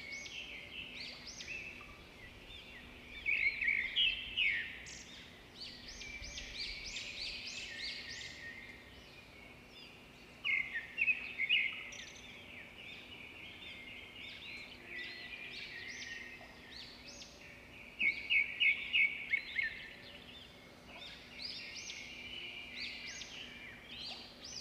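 Birds chirping and twittering in short, high notes, with louder flurries a few seconds in, about ten seconds in, and a quick run of repeated notes near the eighteen-second mark.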